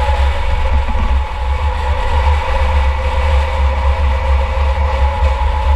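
A 2004 Chevy Impala enduro car's engine running under racing load, heard from inside the car: a loud, deep rumble with a steady two-note whine held for about six seconds.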